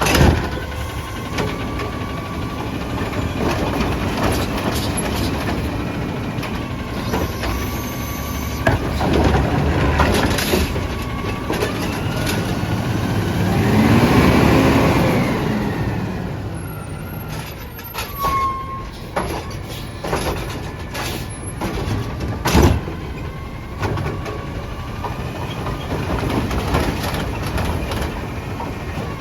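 Autocar ACX garbage truck at work: its engine runs steadily and revs up and back down once near the middle. A few sharp clanks and bangs are mixed in, the loudest about two-thirds of the way through, with a short squeal shortly before it.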